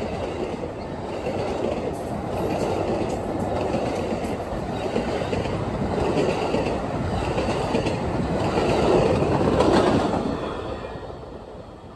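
Passenger train passing at speed: a steady rush of wheels on rail with the clickety-clack of cars over the rail joints. It swells near the end as the last cars go by, then fades away quickly.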